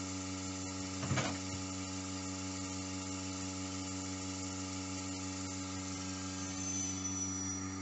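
Milking machine's vacuum pump running with a steady hum while a cow is milked. A brief louder noise breaks in about a second in.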